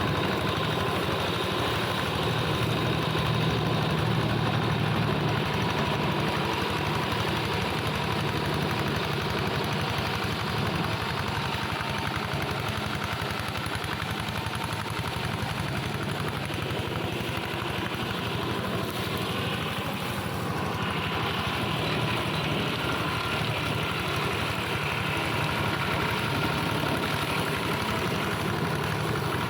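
Engine of a hand tractor modified as a grass and brush mower, running steadily.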